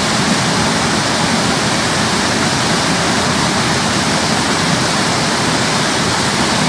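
Waterfall pouring into a pool close by, a steady loud rushing of falling water. This is Hooker Falls on the Little River.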